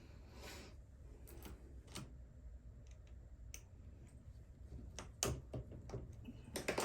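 Scattered light clicks and taps of an Allen wrench and small metal screws against the plastic axle housing of an RC car as the screws are worked out, with a few clicks close together near the end.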